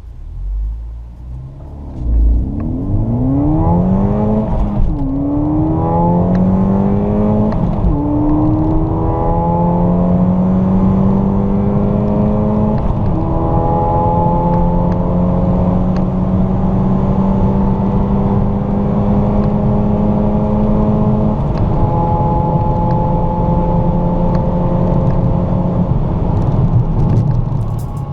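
Ford Fiesta ST200's turbocharged 1.6-litre four-cylinder engine under full-throttle acceleration from a standstill, heard from inside the cabin. A low rumble at the launch gives way to engine pitch rising through the gears, dropping back at four upshifts, with each gear climbing more slowly than the one before.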